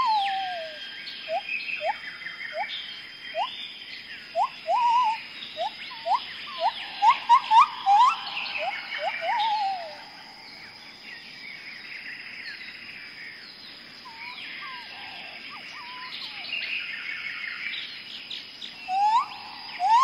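Birds calling: a rapid run of short, rising whistled notes through the first half, then fewer, scattered calls. A steady high, thin tone runs underneath.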